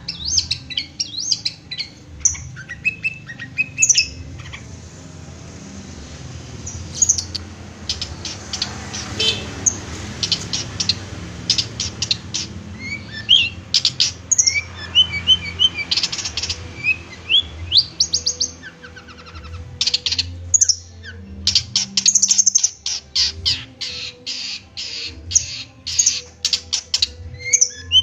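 Long-tailed shrike (cendet) singing: bursts of rapid, sharp chattering chips mixed with short squeaky and whistled notes, the densest runs in the middle and last third, over a low steady hum.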